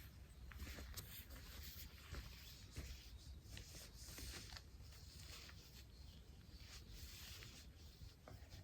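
Near silence: faint rustling and a few light ticks over a low wind rumble.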